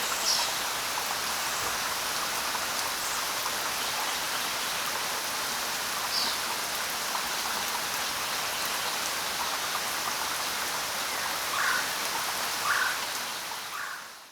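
Steady jungle rain, an even hiss of falling rain with a few brief, sharper sounds standing out above it; it fades out near the end.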